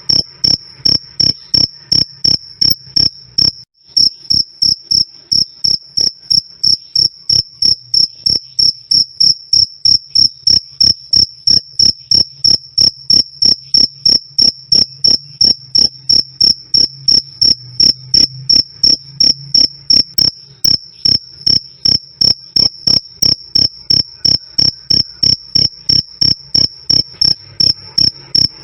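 A cricket chirping loudly and clearly, a pure high 'krik' repeated at a steady pace of about three chirps a second, with a brief break about four seconds in.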